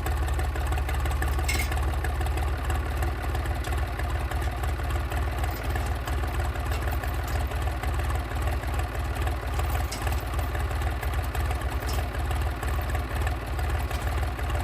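An engine idling steadily, with a deep, even hum and no change in speed.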